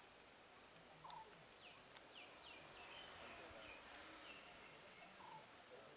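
Near silence: faint open-air ambience with a few short, falling bird chirps in the first half and a steady high-pitched whine.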